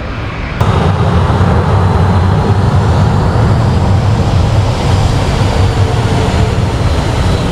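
Boeing 737-800's CFM56 jet engines at takeoff thrust, their jet blast hitting suddenly about half a second in and holding as a steady, loud roar with a faint high whine.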